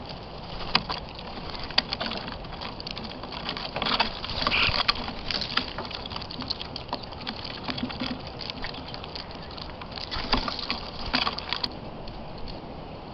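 Irregular light taps and clicks of birds pecking and scuffling at a feeder, with one short chirp about four and a half seconds in.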